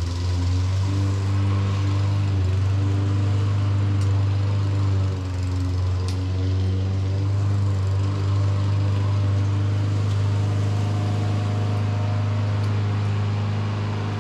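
A motor running steadily with a strong low hum and wavering overtones, with a few faint clicks over it.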